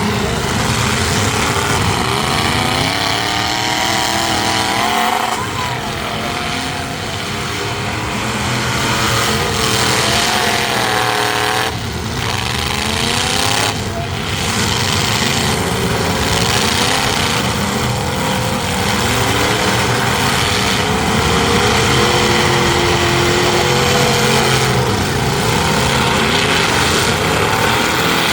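Engines of several demolition-derby trucks running and revving together, their pitch rising and falling over and over without a break.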